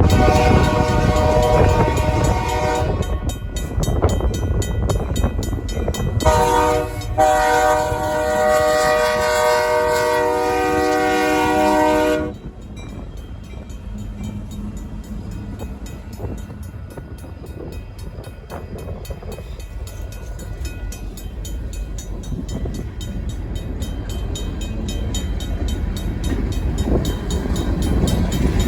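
Union Pacific diesel locomotive sounding its horn in blasts: one at the start, a short one about six seconds in, then a long one that cuts off about twelve seconds in. The RACO mechanical crossing bell dings rapidly throughout, and the locomotive's engine and wheels rumble louder toward the end.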